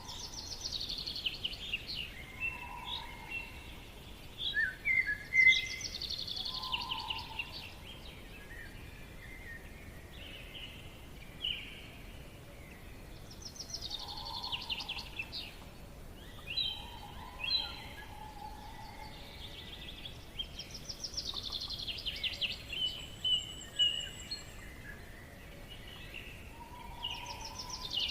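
Forest birdsong: a bird repeats a fast, descending trilled phrase every few seconds, with other birds' short chirps and low, soft notes between, over a faint steady background hiss.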